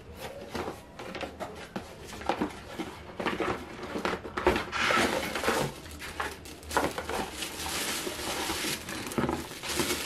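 Irregular knocks, clicks and rustles of boxes, packaging and household items being handled and moved.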